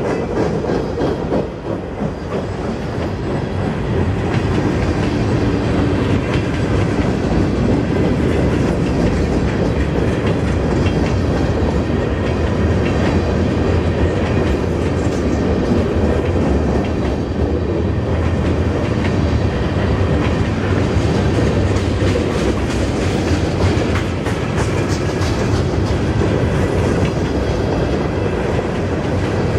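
Freight cars of a CN train (gondolas, tank cars and autoracks) rolling past close by: a steady rumble of steel wheels on rail with a continuous clatter of wheel clicks.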